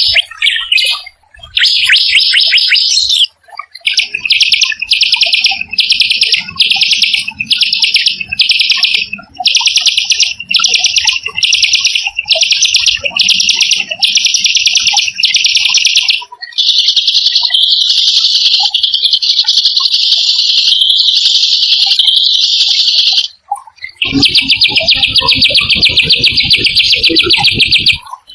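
A small songbird's rapid, harsh trilling song, a 'rough shot' roll. It comes as short trill bursts at about one and a half a second, then a long unbroken trill of about six seconds past the middle, and another trill near the end over a low rumble.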